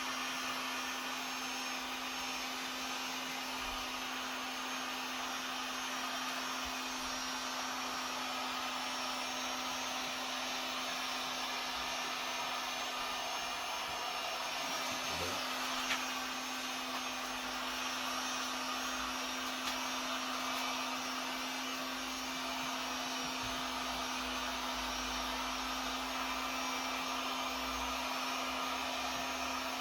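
Heat gun running steadily: an even blower hiss over a steady motor hum, with a single click about halfway through.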